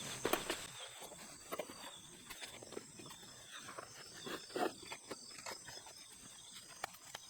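Night insects chirping in steady high tones, with scattered irregular clicks and knocks over the top; the uploader notes bell crickets singing at the campsite.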